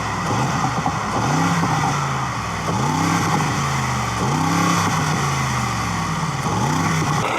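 A motor running steadily, its pitch swooping up and back down about every second and a half, like repeated revving.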